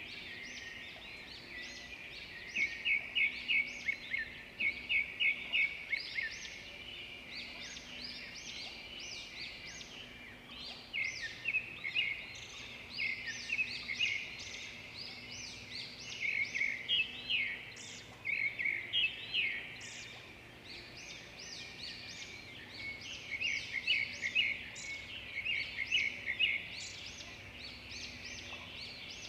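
Birdsong: small birds chirping, with quick runs of short repeated notes coming in clusters and overlapping.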